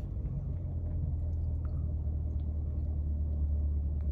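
2023 Corvette C8 Z51's 6.2-litre V8 idling with a steady low rumble; it cuts off suddenly near the end.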